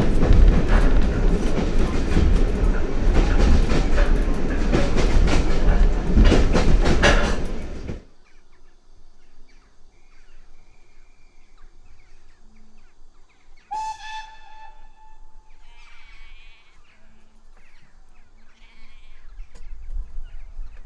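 Heritage railway train running, a loud rumble with the rapid clatter of wheels over the rails, cutting off abruptly about 8 seconds in. After that it is quiet, with one short, steady whistle note a little past the middle.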